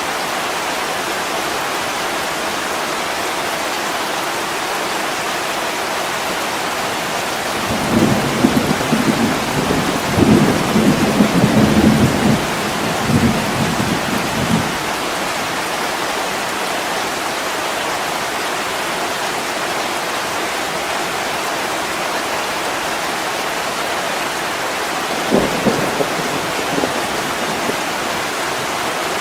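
Steady heavy rain, with rumbling thunder rolling in twice: a long rumble about a quarter of the way in and a shorter one near the end.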